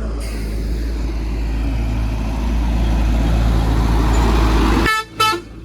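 A motor vehicle running, with steady engine and road noise that builds slightly, then cuts off abruptly; a brief horn toot sounds near the end.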